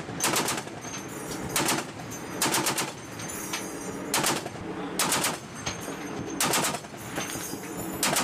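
M2 Browning .50-calibre heavy machine gun firing short bursts of a few rounds each, about seven bursts roughly a second apart, over a steady low hum.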